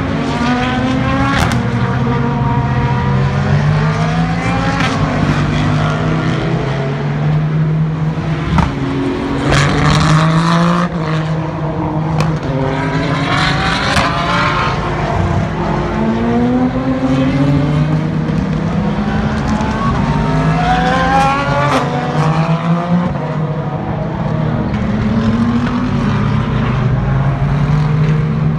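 Race car engines at full throttle accelerating through the gears, each note climbing and then dropping back at every upshift, several cars in succession. The loudest run comes about ten seconds in.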